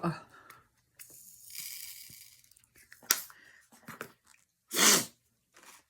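Rustling and crinkling of plastic, likely diamond painting supplies being handled, with a few light clicks and one short, louder rustle about five seconds in.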